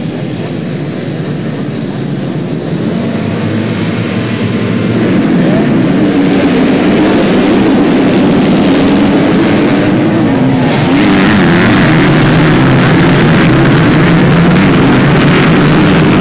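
A field of MX2 motocross bikes with their engines revving together, many engine notes wavering up and down in pitch. The sound swells about five seconds in and grows louder again near eleven seconds in.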